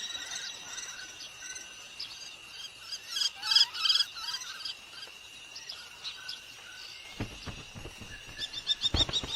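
Small birds chirping and twittering over a steady high-pitched tone, with a louder burst of chirps about three seconds in. Near the end come faster chirps and a few low knocks.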